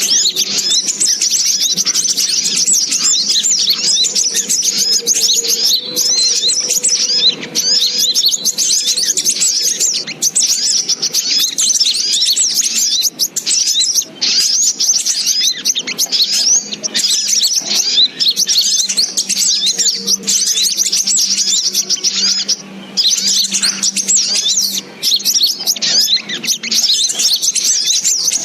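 Sogok ontong (brown-throated sunbird) calls in a dense, unbroken stream of quick high-pitched chirps and twitters, played as a bird-trapping lure.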